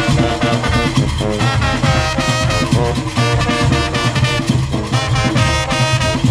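Junkanoo band playing: brass horns blowing short, repeated phrases over dense, driving drumming.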